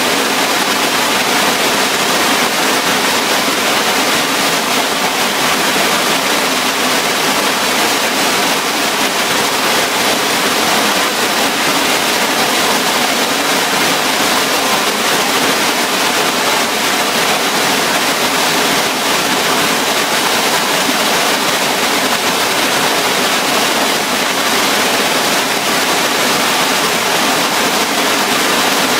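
Loud, steady rushing of a waterfall: mountain-stream water pouring over a step-like, dam-shaped fall.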